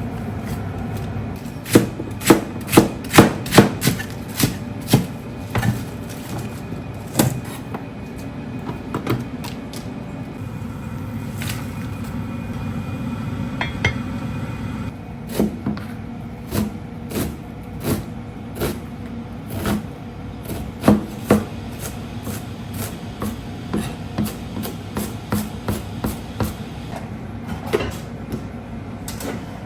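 Kitchen knife striking a wooden cutting board in uneven chops, sharpest and most frequent in the first few seconds, over a steady low hum.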